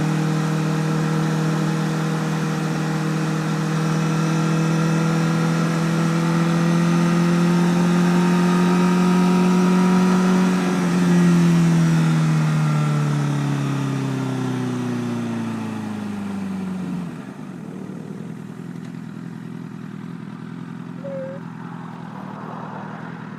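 Honda CBR1000RR inline-four engine running at steady road revs, then the revs falling away over several seconds as the bike slows. About two-thirds of the way through the engine note drops to a much quieter hum.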